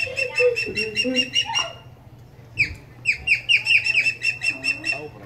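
A bird of prey calling: a rapid series of high, sharp notes, in two runs of about two seconds each with a short break between.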